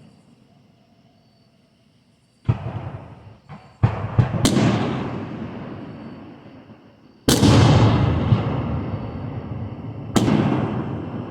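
Fireworks shells bursting: quiet at first, then from about two and a half seconds in, a series of sharp booms with a few smaller cracks between them. Each boom trails off in a long fading rumble.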